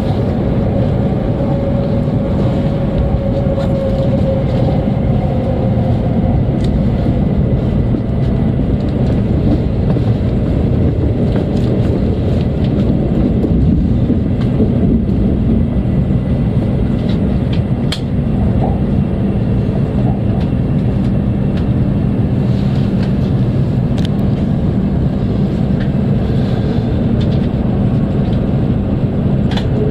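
Hokuriku Shinkansen train's running noise heard from inside the passenger car as it slows into its terminal station: a steady rumble and hum. A whining tone fades away over the first few seconds, and a few sharp clicks come in the second half.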